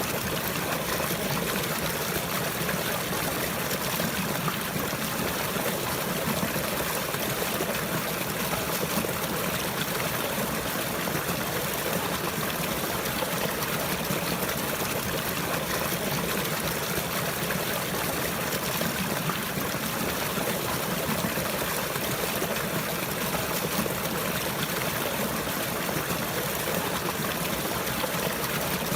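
Flowing water trickling steadily, an even, unbroken rush with no pauses or surges.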